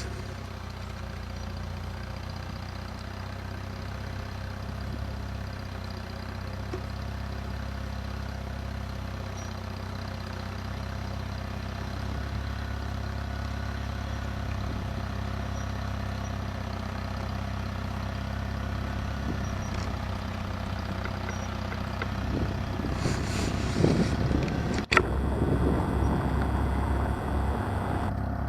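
Engine of a vintage Cub tractor running steadily, growing louder over the last few seconds, with one sharp click a few seconds before the end.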